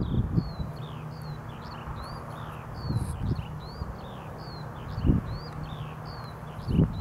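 A small bird chirping steadily, short rising and falling notes about two or three a second, over the steady low hum of the combine harvester and tractor working at a distance, with a few low thumps.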